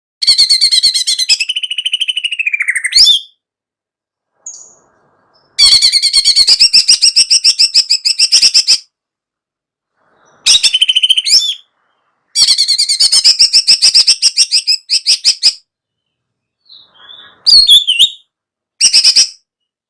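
Loud, close songbird song in about six bursts of fast, chattering trills, each a rapid run of high notes lasting from under a second to about three seconds, with short silent gaps between bursts.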